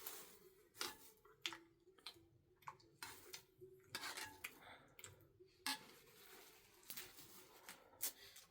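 Faint, irregular clicks and light clinks of small hard objects being handled, about a dozen over several seconds.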